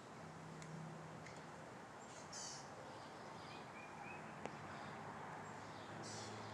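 Faint outdoor ambience with a few short, high bird calls: one about two seconds in and another near the end, plus a few faint chirps and a single light tick.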